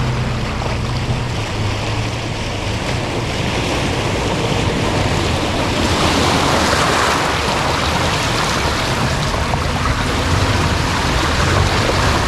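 Off-road vehicle engine running at low speed over a rough trail, under a steady rush of tyre and body noise that swells about six seconds in.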